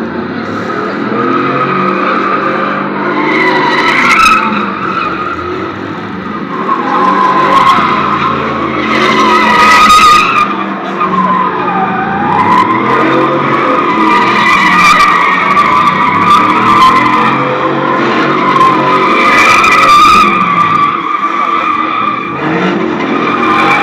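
Vehicle doing a long burnout or donuts: tyres squealing continuously with a wavering pitch while the engine revs rise and fall.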